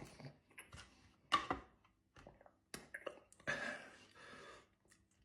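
Mouth and eating noises from a man eating a very hot curry: a few sharp clicks and smacks, then a longer hissing breath out about three and a half seconds in, from a mouth burning with chilli heat.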